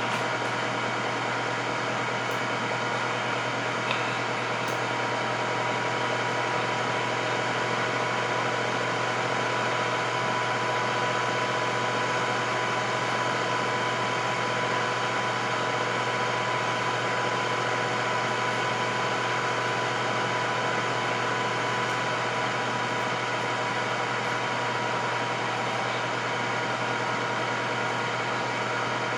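Electric air fryer running steadily: an even fan-and-motor hum with a low drone and a steady higher tone, unchanging throughout, with one faint click about four seconds in.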